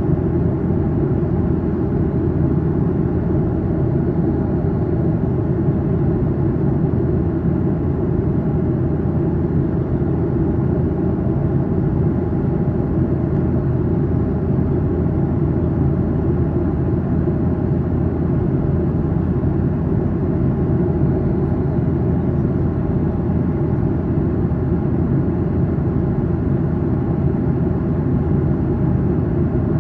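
Steady cabin noise of a Boeing 737-800 in flight, heard inside the cabin: the drone of its CFM56-7B engines and the rush of air over the fuselage, an even deep roar with a faint steady hum above it.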